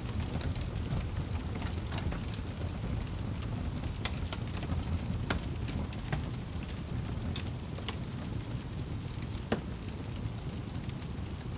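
Wood fire crackling in a fireplace: a steady low rumble of flames with scattered sharp pops and snaps, one louder pop near the end.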